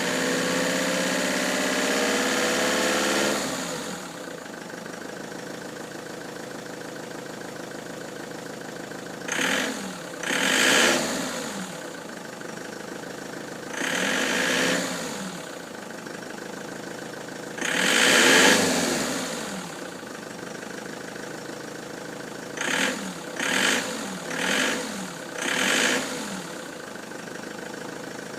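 Ford Transit diesel engine, logging fault codes P0149 (fuel timing) and P1564, running fast and dropping to idle about three and a half seconds in. It then idles steadily between about eight short throttle blips, the last four in quick succession.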